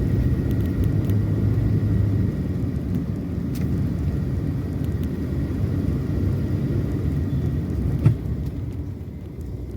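Steady low rumble of a car's engine and tyres heard from inside the moving vehicle, with one sharp knock about eight seconds in.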